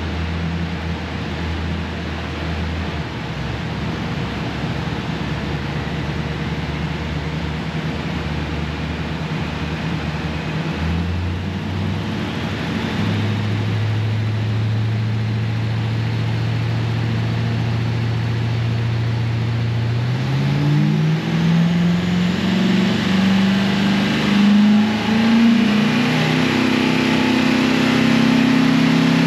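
Car engine running steadily, its pitch rising about a third of the way in and then climbing in steps over the last third as it revs higher.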